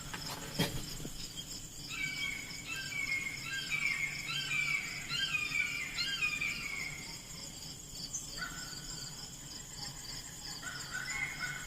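A songbird singing repeated short phrases of falling whistled notes, over a steady high trill of insects.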